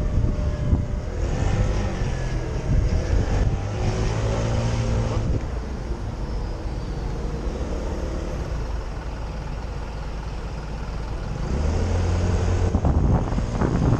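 125cc motorcycle engine accelerating, its pitch climbing over the first few seconds, running steadier in the middle and climbing again near the end, with road and wind noise.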